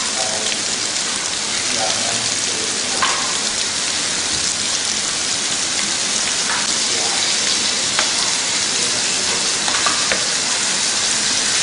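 Chicken fillets frying in hot oil in an electric frying pan as pieces are laid in over mushrooms: a steady sizzling hiss with a few light clicks.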